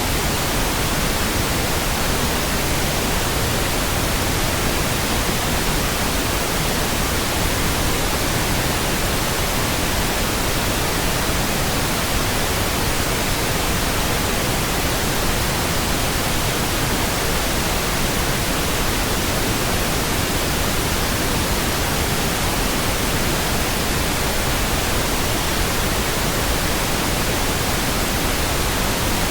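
Steady synthetic pink noise: an even, unchanging hiss across the whole range, with no other sounds.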